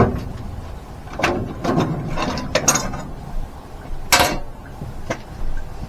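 A series of short clunks and scrapes at irregular intervals, the loudest about four seconds in.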